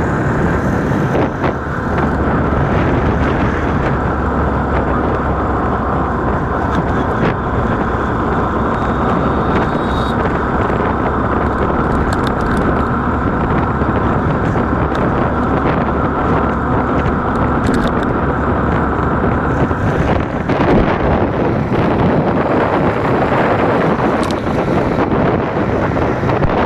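Motorcycle engine running on the move, largely covered by wind buffeting the microphone. The wind noise grows harsher about twenty seconds in.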